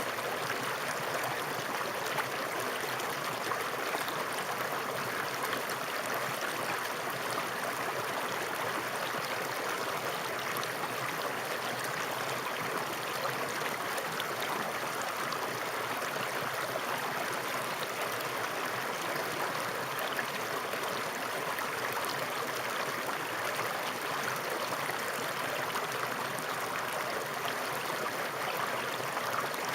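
Flowing water running steadily, an even rushing sound with no breaks or changes in level.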